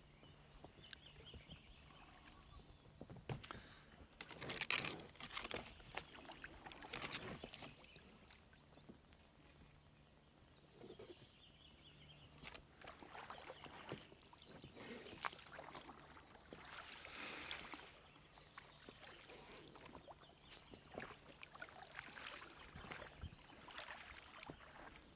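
Oars dipping and pulling through water, a soft splash and swish every couple of seconds, over a faint steady low hum from a distant boat motor.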